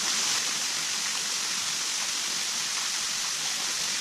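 Steady, even hiss of water, rain falling or a stream running, with no change in level throughout.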